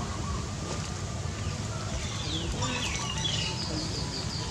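Small bird chirping: scattered high, sliding chirps from about halfway in, then a quick run of short, high, falling notes repeated several times a second, over a steady low background rumble.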